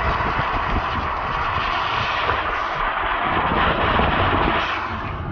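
Strong blizzard wind rushing and buffeting in through a lowered car side window while driving, over the low rumble of the car on the road. The rush eases near the end.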